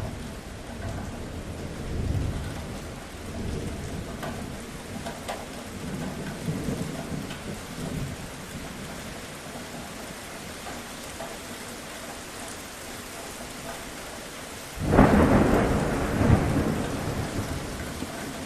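Steady rain with rumbling thunder rolling through the first half, then a sudden loud thunderclap near the end that rumbles away over a couple of seconds.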